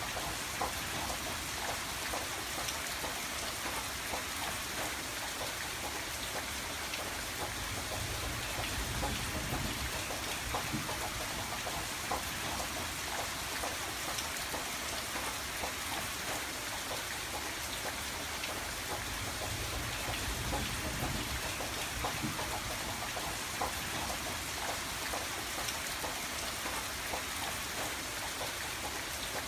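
Steady rain on a window: a dense even hiss with many small drop taps.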